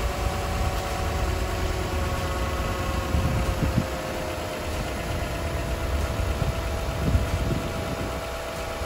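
Toyota Sienna's 3.5-litre V6 engine idling steadily, just started after a radiator replacement and refill with antifreeze.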